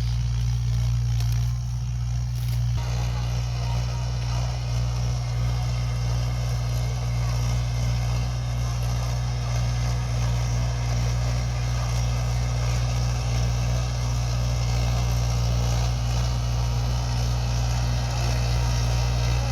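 Tractor diesel engine running steadily under load while working a rotavator, a deep even drone. About three seconds in, a wider noise from the working machinery joins it.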